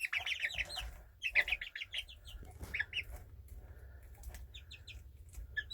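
Young chickens clucking and cheeping in quick runs of short high notes, several runs in a row with short gaps between.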